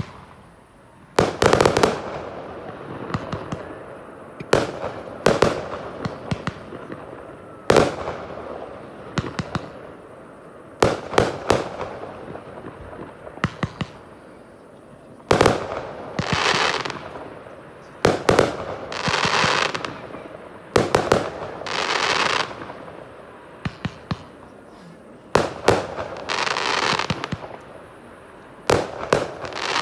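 Fireworks display: aerial shells bang one after another every second or two. Several bursts trail off in a second-long crackle.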